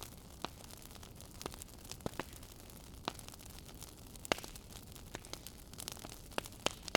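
Wood fire in a fireplace crackling: irregular sharp pops and snaps, a few a second, over a soft steady hiss. One pop stands out louder about four seconds in.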